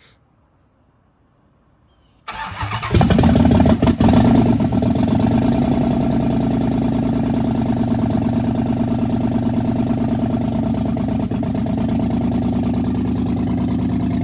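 A 2015 Dodge Charger's 5.7-litre Hemi V8 cranking and firing up about two seconds in, flaring up briefly and then settling into a steady idle. The owner says it is misfiring and throwing codes.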